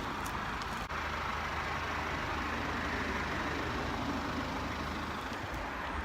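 Steady motor-vehicle noise: an even rush over a low hum, with no changes.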